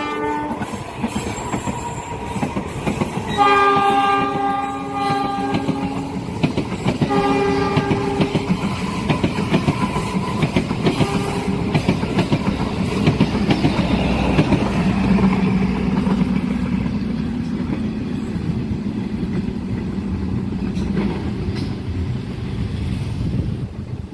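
Train passing at a level crossing: its multi-tone horn sounds several times, one long blast and then shorter ones, while the wheels run over the rail joints in a rapid, continuous clickety-clack.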